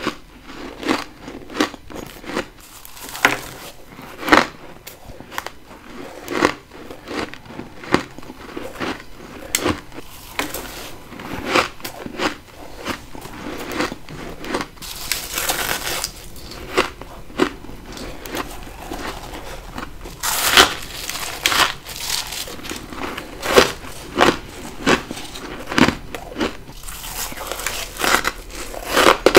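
Close-miked bites into powdery frost ice grown in a deep freezer with a humidifier: sharp crunches about once a second, with denser stretches of crackling where the frost crumbles.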